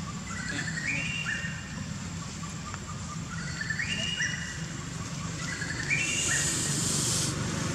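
A bird singing the same short phrase of quick whistled notes that step upward, three times, about two and a half seconds apart, over a steady low hum. Near the end a high hiss lasts about a second.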